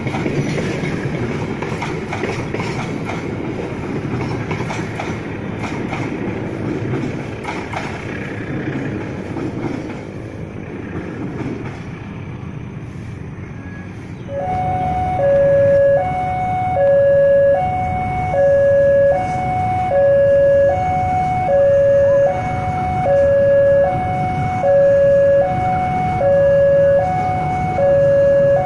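Passenger train coaches rumbling and clattering over the rails as they pass, dying away about halfway. Then a two-tone electronic railway warning alarm starts, alternating high and low about once a second, over a low rumble as the next train approaches.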